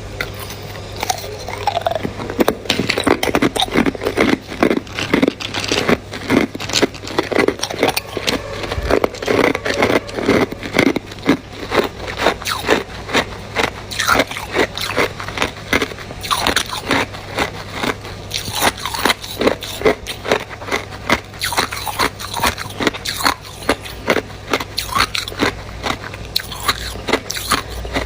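Ice being bitten and chewed: rapid, continuous crunching with many sharp cracks.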